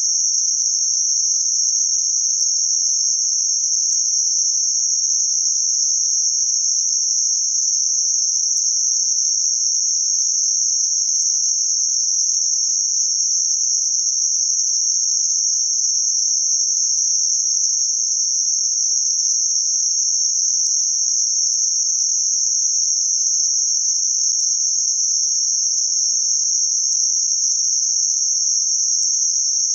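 Synthetic band-limited noise centred around 6051 Hz: a steady, unchanging high-pitched hiss with no other sound beneath it.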